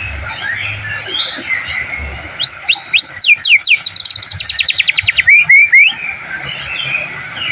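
White-rumped shama singing a loud phrase about two and a half seconds in: a run of sweeping down-slurred whistles that breaks into a rapid string of fast repeated notes and ends in three short calls. Softer chirping continues behind it.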